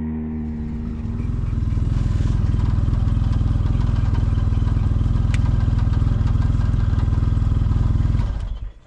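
Vehicle engine running at a steady idle, then shut off abruptly about eight seconds in.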